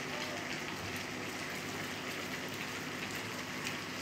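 Steady rain falling, an even hiss with faint drops pattering on surfaces.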